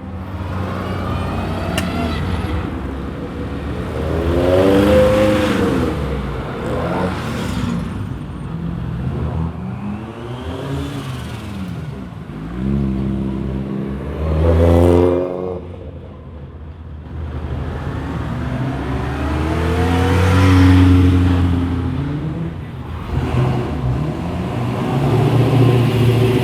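Rally cars driving past one after another, their engines revving up and falling away. There are loud passes about 5, 15 and 21 seconds in, with a rising engine pitch near the end.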